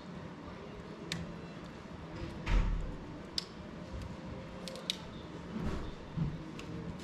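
Fire burning in a fireplace: a low steady rush with scattered sharp crackles and pops, and one louder dull thump about two and a half seconds in.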